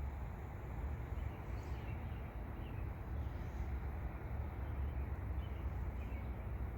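Outdoor ambience: a steady low rumble, with a few faint, short bird chirps scattered through it.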